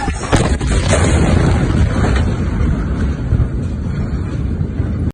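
Blast of the huge Beirut port explosion: a loud, deep rumble with a couple of sharp cracks in the first second, the sharpest about a third of a second in.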